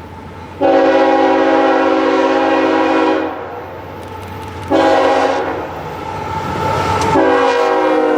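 A diesel freight locomotive's air horn sounds a chord: one long blast, a short one, then another long blast beginning near the end, over the low rumble of the approaching train.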